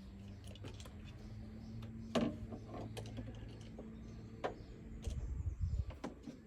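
Volvo V70XC's five-cylinder engine idling steadily after a cold start, a low even hum, with scattered irregular clicks over it and a cluster of louder low thumps about five seconds in.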